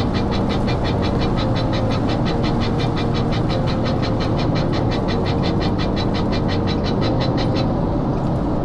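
Steady rumble of road noise inside a car's cabin while driving, with a fast, even high ticking about five times a second that stops near the end.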